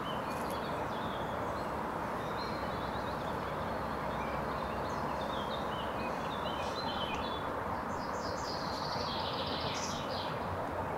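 Small songbirds chirping in many short, scattered calls, busiest in the second half, over a steady background hiss.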